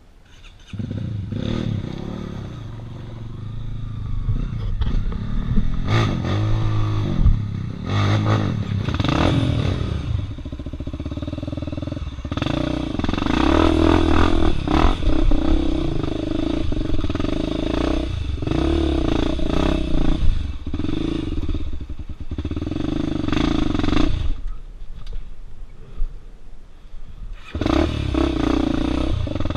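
Off-road motorcycle engine revving up and down in repeated bursts as it works over rough ground, with a few sharp knocks and clatter in between and a brief lull near the end.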